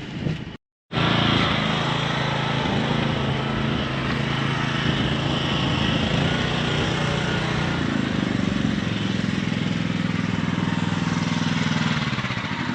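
An engine running steadily at a constant speed, starting after a brief dropout under a second in.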